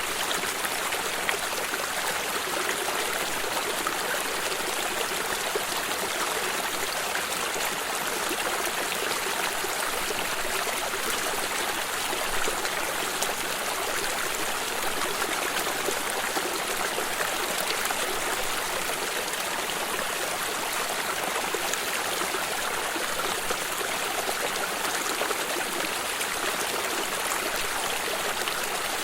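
A small stream running steadily over stones, a constant babbling and trickling of water.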